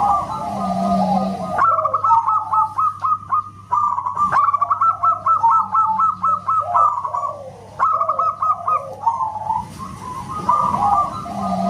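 Zebra doves cooing: quick strings of short, clipped coos in two overlapping voices, broken by brief lulls about four and eight seconds in.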